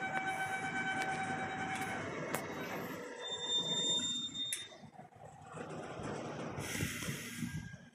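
Freight train of autorack cars rolling past, the steel wheels rumbling on the rails. A steady high-pitched wheel squeal stops about two seconds in, and a thinner, higher squeal comes briefly about a second later.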